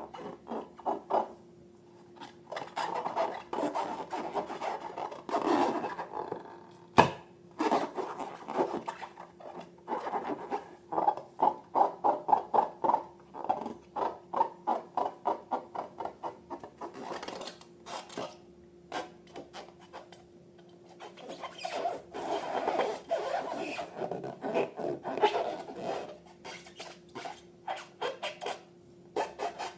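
Slime being squished and kneaded by hand, giving runs of wet clicks and pops at about four or five a second, with one sharper click about seven seconds in.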